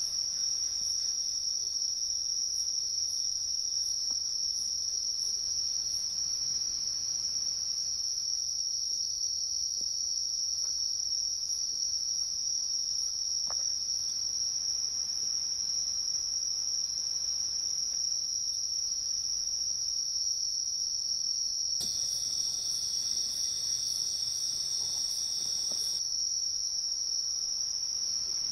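Night-time crickets keep up a steady, unbroken high trill. For about four seconds in the last third, a brighter hiss rises over it, then cuts off sharply.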